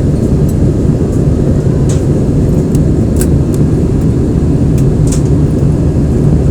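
Steady roar of an Airbus A320 in flight as heard inside the passenger cabin, engine and airflow noise, with a few faint clicks.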